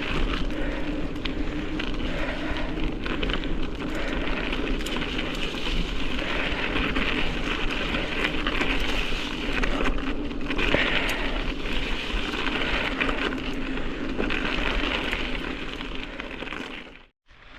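Mountain bike riding noise: tyres rolling steadily with a crackly texture, and strong wind buffeting the microphone. The sound cuts out briefly near the end.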